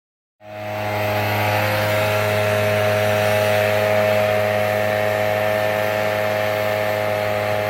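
Skid steer engine running at a steady speed, a loud even drone that starts suddenly about half a second in.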